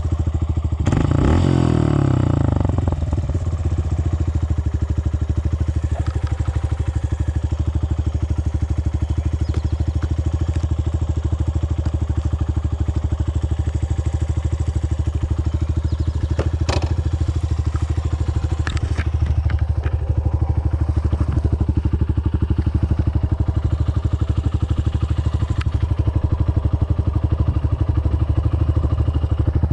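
Dirt bike engine running steadily with a rapid, even pulse, its pitch briefly shifting about a second in. A few sharp clicks come in the middle.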